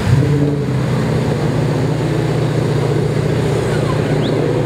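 Engine of an off-road 4x4 running at a steady pitch in deep mud, a low even drone with no revving.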